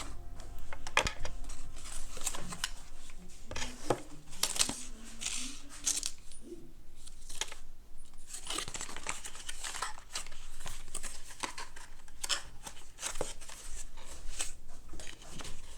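Hands handling crinkly packaging: irregular rustling, crinkling and tearing sounds in a small room.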